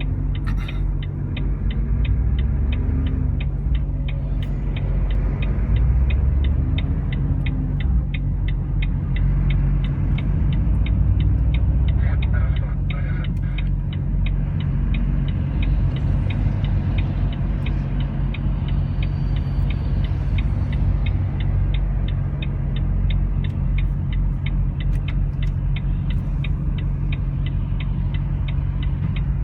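A motor vehicle running with a steady low rumble, and a regular ticking at about three to four a second throughout.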